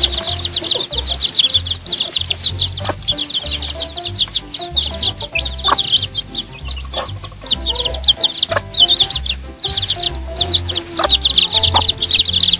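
A group of young chicks peeping rapidly and continuously, with a lull in the middle, over background music with a low beat.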